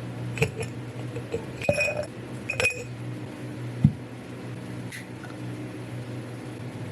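A few light clinks of glass or dishware being handled, each with a short ring, then a dull knock about four seconds in, over a low steady hum.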